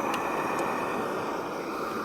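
Alpkit BruKit canister gas stove burner running at full flame: a steady rushing noise that sounds like a jet.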